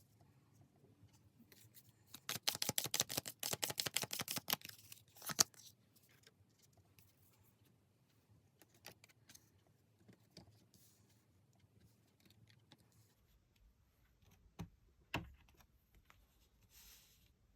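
Tarot cards being shuffled by hand: a quick riffle of rapid paper clicks about two seconds in, lasting some three seconds, then a single snap. After that, light card-handling ticks and two soft knocks near the end.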